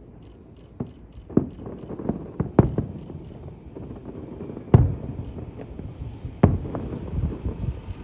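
Aerial fireworks bursting: a string of irregular booms and cracks, the loudest about five and six and a half seconds in.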